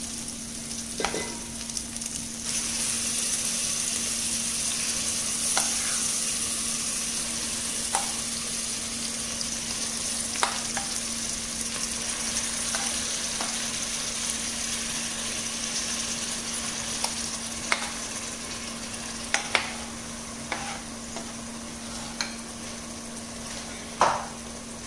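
Marinated chicken frying in oil with onions in a metal pot: the sizzle swells sharply about two seconds in as the chicken hits the hot pan, then holds steady, easing slightly. Occasional clinks against the pot, with a louder knock near the end.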